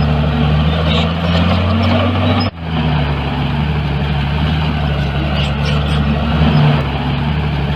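Heavy diesel earthmoving machinery running steadily, with a brief sharp break in the sound about two and a half seconds in.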